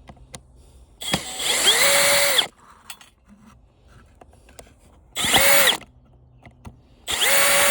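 Power drill used as a screw gun, run in three bursts to unscrew a fastener: a run of about a second and a half, a short one about five seconds in, and another starting near the end. Each time the motor whine climbs to a steady pitch, then falls as the trigger is let go.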